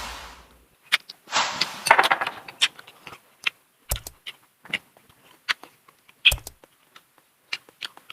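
Eating a seafood meal: irregular clicks and clatter of shells and utensils, a rustling, clattery stretch about a second in, and two sharper knocks later on.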